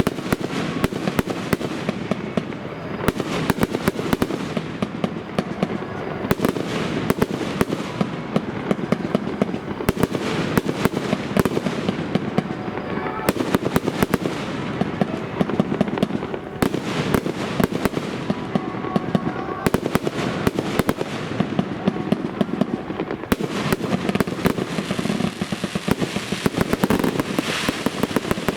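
Fireworks display: a dense, unbroken run of bangs and crackling reports, many per second.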